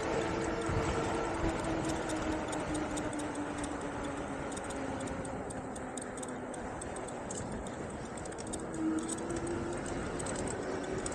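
Engwe Engine Pro e-bike riding along, its 750 W hub motor whining over wind and tyre noise; the whine slowly drops in pitch over the first half as the bike slows, then rises again about nine seconds in as it picks up speed. Light ticking runs through it.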